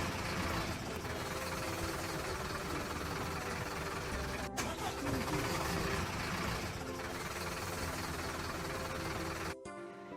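Construction vehicle engine sound effect running steadily, with a sharp click about four and a half seconds in; the engine sound cuts off suddenly near the end.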